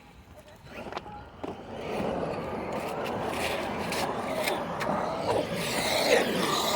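A radio-controlled monster truck driving over rough ground, its motor and tyres growing steadily louder from about a second and a half in.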